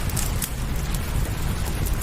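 Steady rain mixed with a crackling fireplace: an even hiss over a low rumble, dotted with scattered sharp crackles.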